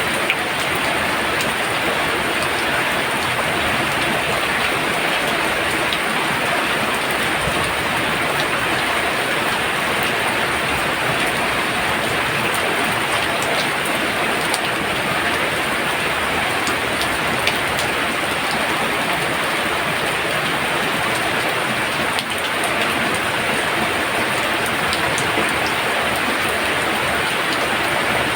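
Heavy rain pouring steadily: a dense, even hiss of falling water with scattered sharper drop ticks.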